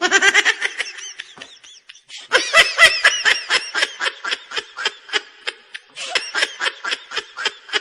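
A baby laughing in a long run of quick, high-pitched bursts, with a brief lull about a second in before the laughter picks up again.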